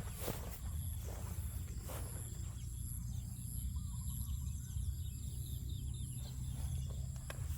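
Outdoor ambience: insects droning in a steady high pitch over a low rumble, with a few faint clicks.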